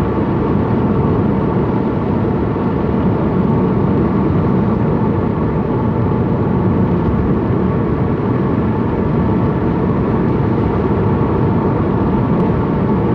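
Steady engine and tyre road noise heard from inside the cabin of a manual car cruising along a road.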